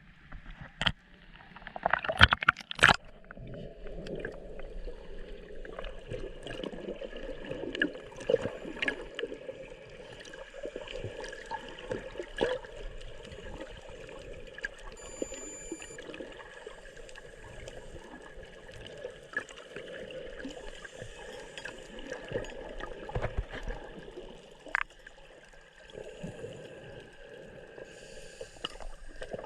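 Water gurgling and sloshing, with scattered clicks and a few loud knocks about two to three seconds in.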